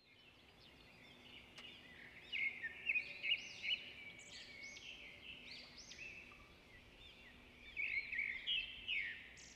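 Birds chirping: many quick, high twittering calls over a faint hiss. They grow busier about two seconds in and again near the end.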